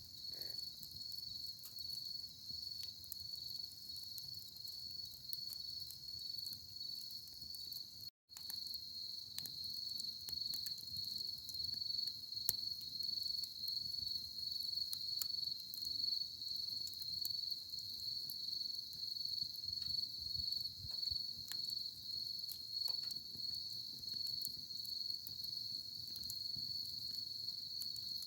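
Crickets chirping in a steady high, rapidly pulsing trill over the scattered small pops and crackles of a burning wood campfire. All sound drops out for a split second about eight seconds in.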